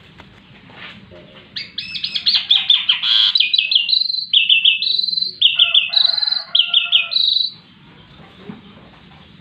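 A songbird singing: rapid strings of high, quickly repeated chirps broken by short, higher held notes, lasting about six seconds and starting a second and a half in.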